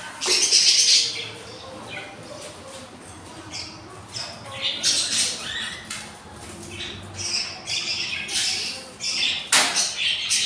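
Budgies squawking in a run of harsh, scratchy calls, loudest about half a second in and again near the end, with a sharp click shortly before the end.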